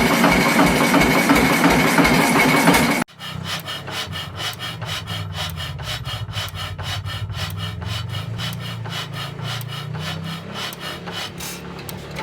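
An old Fairbanks Morse engine runs loudly with a steady, even firing beat. About three seconds in, the sound cuts abruptly to a quieter old engine running with a low drone and a rapid rhythmic rasping tick.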